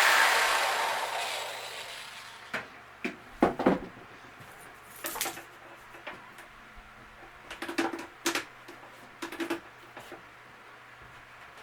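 A power tool winding down over the first couple of seconds, then a series of short knocks and clicks of wood and tools being handled.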